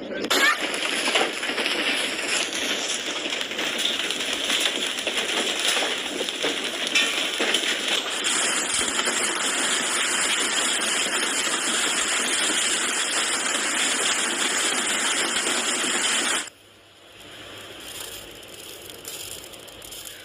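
Heavy hail pelting hard surfaces, a dense clatter of countless small impacts. It cuts off suddenly near the end, leaving a much fainter patter.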